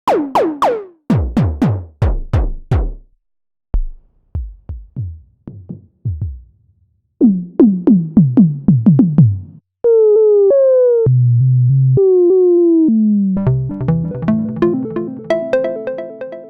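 Roland System-100 software synthesizer presets being auditioned: groups of short percussive zaps that sweep sharply down in pitch, then a sustained lead line with notes gliding into one another, and near the end a fast arpeggiated pattern.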